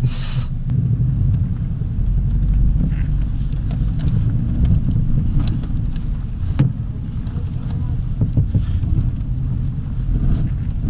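Jeep engine running with a steady low rumble while the vehicle rattles and knocks, with a brief rush of noise at the very start.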